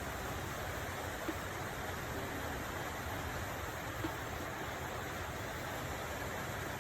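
Steady rain falling, an even hiss, with two faint light taps, about a second in and about four seconds in.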